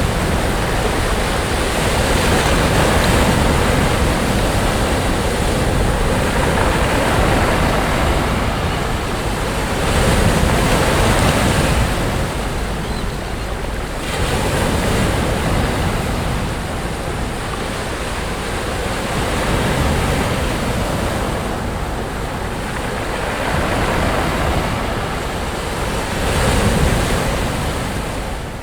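Sea waves breaking on a beach: a continuous rushing wash that swells and ebbs every few seconds, fading out near the end.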